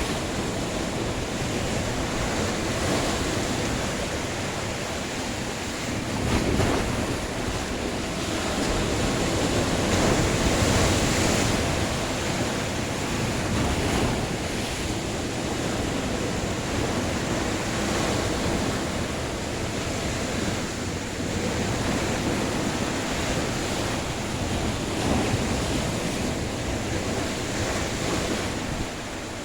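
Ocean surf washing onto a shore: a continuous rush of breaking waves that swells now and then, with wind buffeting the microphone.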